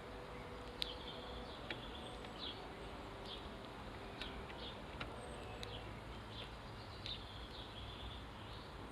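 House sparrows chirping: short, scattered chirps with a few sharp clicks among them, and a faint thin high call that recurs every couple of seconds.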